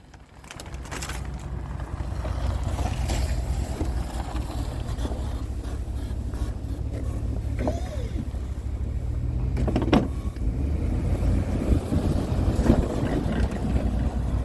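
Truck engine running with a steady low rumble that builds up in the first couple of seconds, with one sharp knock about ten seconds in.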